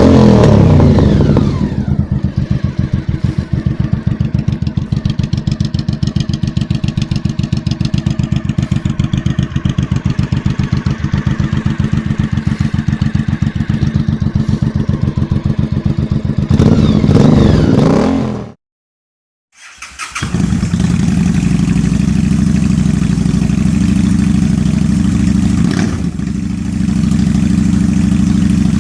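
Honda Shadow V-twin motorcycle engine revved and falling back to a steady, pulsing idle, blipped once more about 17 seconds in. After a sudden second-long break, another Shadow engine idles steadily.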